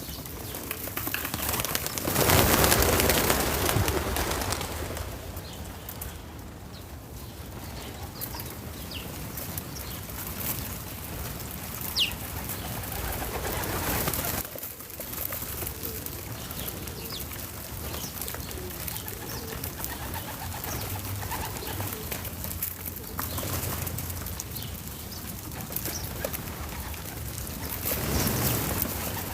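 Outdoor backyard ambience: a steady hiss of noise with a louder rush about two to four seconds in, and scattered bird calls, including one sharp rising chirp near the middle.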